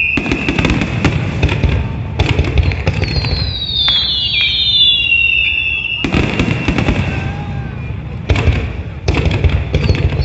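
Fireworks display: volleys of rapid bangs and crackling from bursting shells, with a bundle of several whistles sliding down in pitch together a few seconds in.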